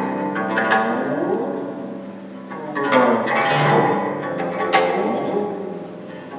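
Live Chinese string music, a guzheng being plucked: sharp plucked notes, several of them bending up and down in pitch, over sustained ringing strings that swell and fade.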